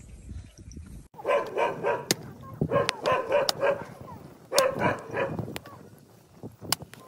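A dog barking and yelping in three short bouts, starting about a second in, with sharp clicks in between.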